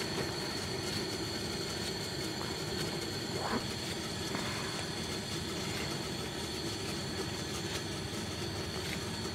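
Wind blowing steadily with a rushing noise.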